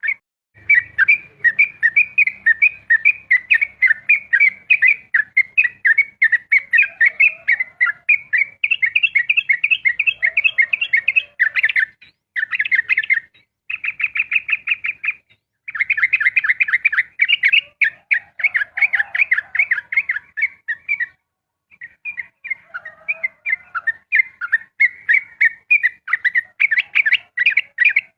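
Yellow-vented bulbul (trucukan) singing its rapid-fire 'ropel' song: fast runs of short, clear chattering notes, several a second, broken by a few short pauses.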